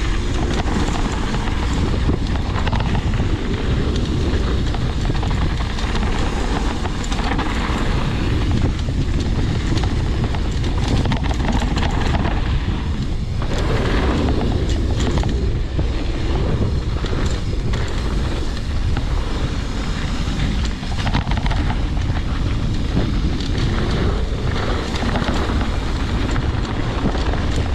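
Mountain bike ridden fast down a rough dirt trail: steady wind rush over the camera's microphone, with the tyres, chain and frame rattling and knocking over bumps throughout.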